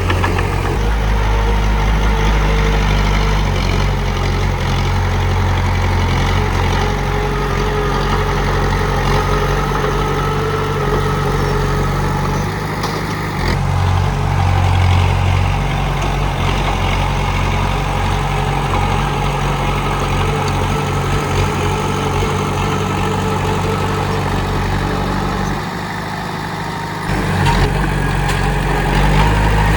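Komatsu D31P bulldozer's diesel engine running with a steady low rumble. It drops briefly about 26 seconds in, then picks up again.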